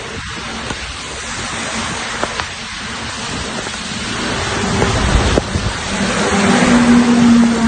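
Heavy rain falling steadily, with a rumble of thunder swelling about halfway through. A steady low tone joins near the end.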